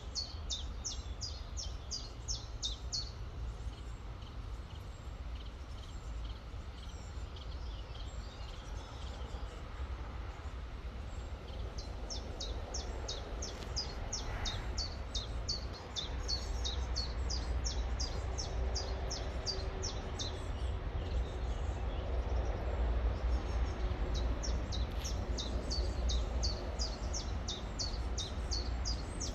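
A small songbird singing in runs of quick, high, repeated chirps, several a second, with pauses between runs, over the steady rush of a river and a low rumble.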